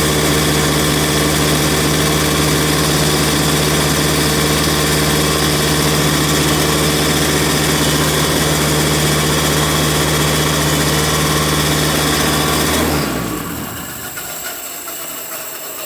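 Margay go-kart's 125cc Parilla two-stroke engine running at a steady speed just after a cold start, its throttle held open by hand on the foot pedal. It shuts off about 13 seconds in, leaving a much fainter sound with a slowly falling tone.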